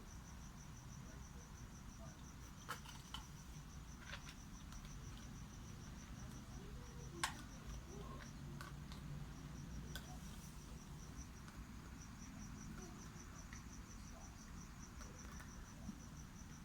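Cricket chirping steadily in a fast, even pulse, with a few sharp clicks, the loudest about seven seconds in.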